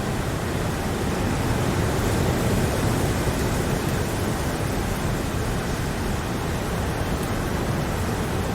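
Steady rain, an even rushing hiss with no single drops or gusts standing out.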